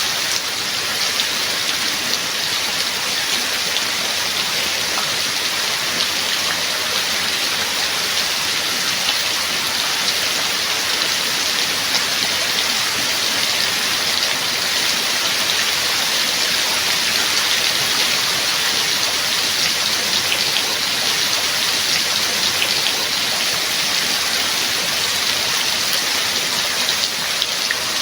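Steady rain falling: an even, unbroken hiss with small individual drop ticks scattered through it.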